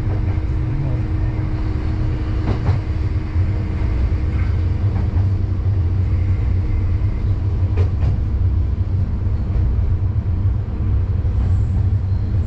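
Diesel railcar running along a local single-track line, heard from the cab: a steady low rumble of engine and wheels on rail, with a few sharp clicks of wheels over rail joints, twice more plainly about two and a half and eight seconds in.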